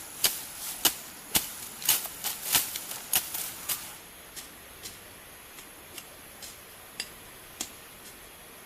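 Sharp knocks of a blade chopping bamboo, about two a second, growing fainter and sparser after about four seconds.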